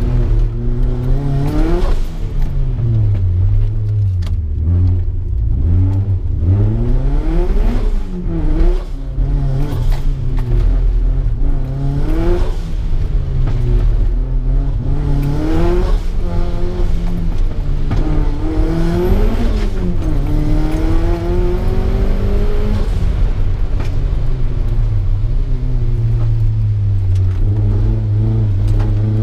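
Mazda MX-5's four-cylinder engine heard from inside the cabin, revving up and falling back again and again as the car accelerates and slows between corners of an autocross course.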